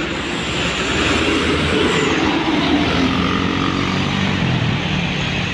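A motor vehicle passing close by on the road over steady road noise, its engine note falling in pitch as it goes past.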